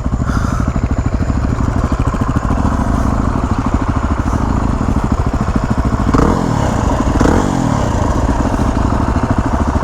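Dual-sport motorcycle engine running steadily, its pitch rising and falling briefly about six and seven seconds in.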